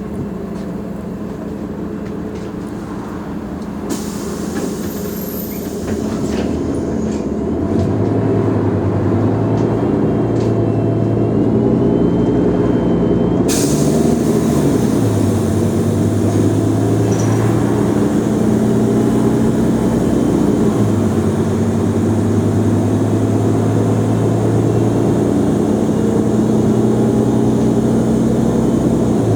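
Mercedes-Benz O345 Conecto G articulated bus's diesel engine pulling away and getting louder a few seconds in, its note stepping down twice as the automatic gearbox changes up. A sudden air hiss starts a few seconds in and comes again about halfway.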